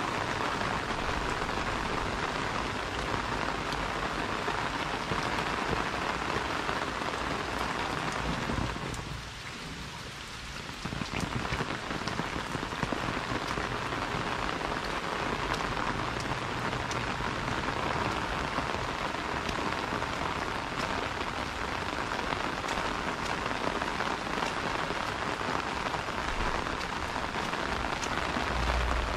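Steady rain pattering on an umbrella held overhead and on wet paving and puddled ground. It eases briefly about nine seconds in, then keeps on.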